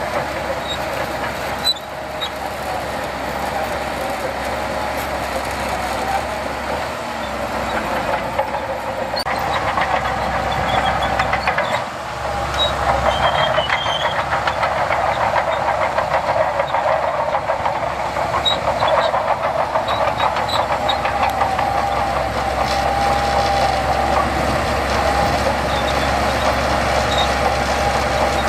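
Heavy diesel earthmoving machinery working: a steady engine drone with a dense rattle, getting louder about ten seconds in and again after a brief dip near the middle.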